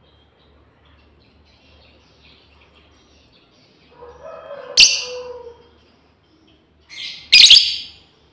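Lovebirds chirping faintly, then two loud shrill screeching calls, one about halfway through and a longer one near the end. This is the calling of a female lovebird to its mate.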